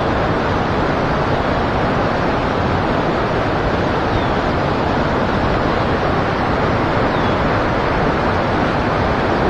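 Steady rushing of river water around a wader, an even unbroken noise.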